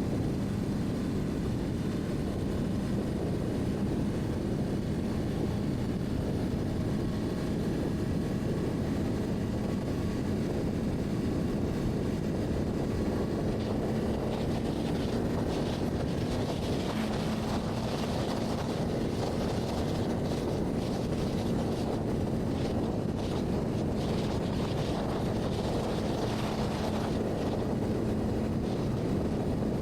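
Honda CBR600RR's inline-four engine at a steady cruise, its note holding nearly level, under wind rushing over the microphone.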